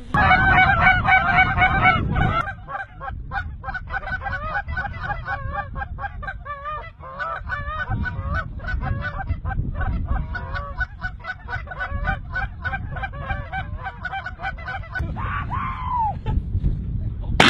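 Many geese calling at once, a chorus of overlapping yelps and honks that is loudest in the first two seconds. The flock is taken to be specklebellies (greater white-fronted geese). Near the end, one call slides down in pitch.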